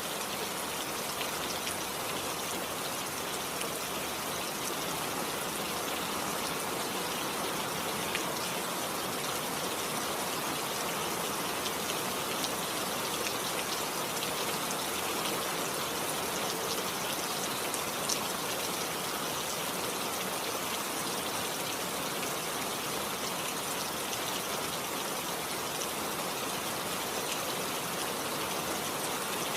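Steady rain falling, with scattered sharp drop hits.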